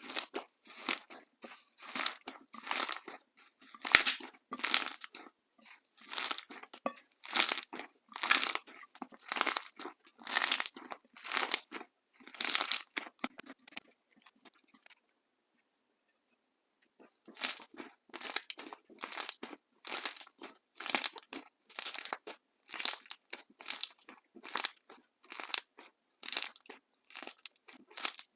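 Jelly slime being squeezed and pressed by hand, giving short squishy, crackling pops about twice a second, with a pause of about two seconds midway.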